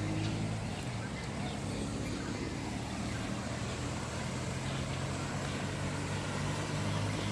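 A steady low motor hum, like an engine running, with faint high chirps over it.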